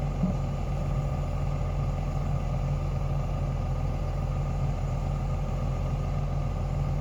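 A heavy construction machine's engine running steadily at an even speed, with no revving.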